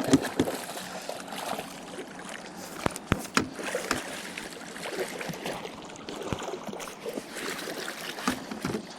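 Water sloshing and splashing at a boat's side as a big catfish is brought in for netting, with scattered sharp knocks and clicks against the boat.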